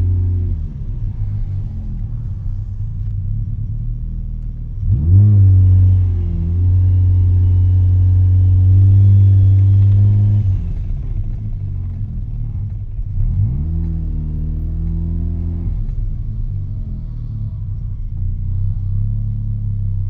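Mazda RX-7 rotary engine through an RE Amemiya Dolphin Tail 90 Curl exhaust, heard from inside the cabin with the windows down while driving. A steady low drone, then about five seconds in the revs climb and hold loud for several seconds before dropping back. A second, shorter rise in revs comes a few seconds later.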